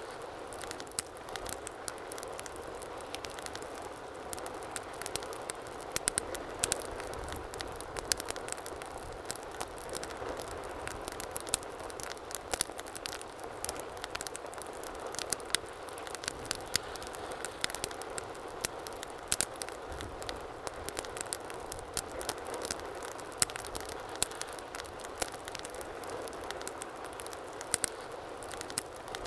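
Wood fire burning in a fireplace, crackling and popping with many sharp, irregular snaps over a steady soft rush of flame.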